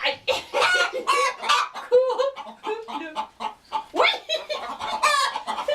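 Chickens clucking in a henhouse: a rapid, continuous run of short clucks and squawks.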